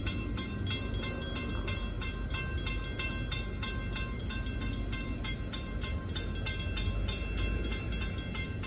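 A railroad bell ringing rapidly and evenly, about four strikes a second, over the low rumble of a passing freight train.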